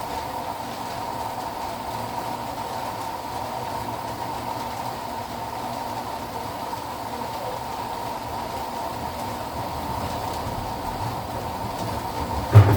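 Midea 13 kg washing machine running: a steady mechanical hum with a constant high whine. Near the end a sudden knock, then a louder, lower motor hum starts.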